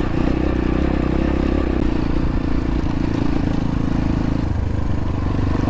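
X-Pro Templar X 250 dirt bike engine running steadily under throttle. About four and a half seconds in, its note drops lower as the throttle eases off.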